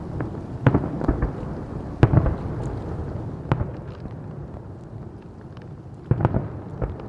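Fireworks exploding: separate sharp bangs every second or so, then a quick cluster of several about six seconds in, with a low rumble lingering between the bangs.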